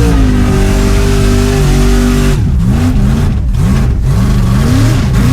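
Engine revving: it holds steady high revs, then about two seconds in it drops and is revved up and down several times.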